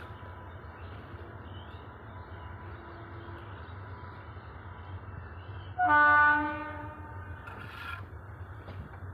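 A train horn sounds one loud blast about six seconds in, held for about a second and then fading, over a steady low rumble.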